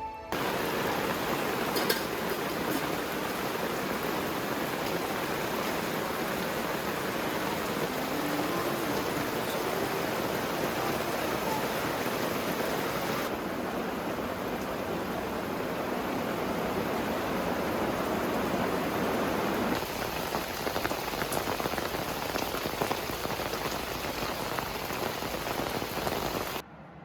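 Steady rain falling, a dense even hiss. Its character shifts abruptly twice, about halfway and again about three-quarters through.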